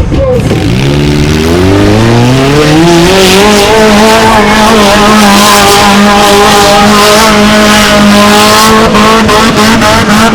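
Mini monster truck engine revving up over about two seconds, then held steady at high RPM.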